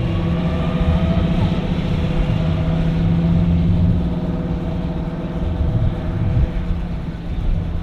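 An engine running steadily, a low even hum with a deep rumble beneath it.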